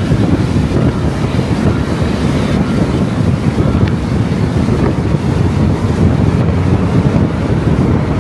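Steady low rumble of wind on the microphone and road noise from a moving car.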